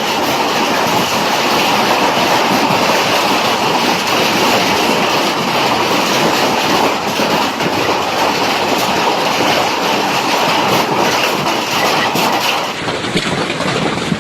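Large hailstones striking hard surfaces in a dense, continuous clatter, slightly quieter near the end.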